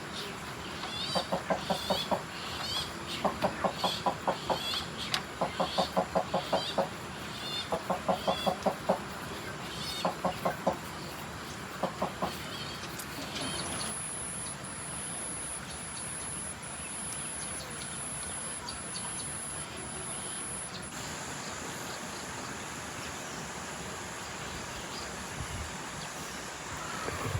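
Chickens clucking in quick runs of repeated notes for about the first twelve seconds, then fading out into a steady hiss, with a thin high whine for several seconds in the middle.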